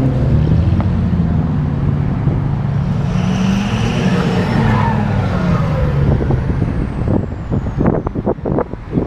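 Car engines and exhausts running as cars drive past, with a higher whine rising and falling as one goes by around the middle. Near the end, wind buffets the microphone.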